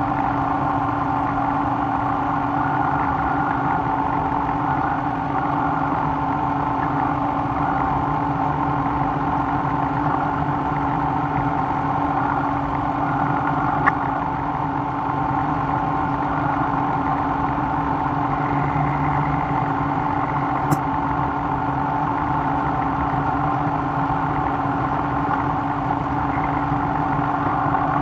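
A machine motor running steadily with a constant hum of several steady tones, with a faint click a little before the middle and another about three quarters through.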